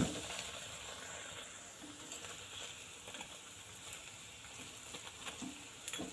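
Urad dal batter boras frying in hot oil in an aluminium kadai: a steady sizzle, starting with a sharp splash as a fresh lump of batter drops into the oil.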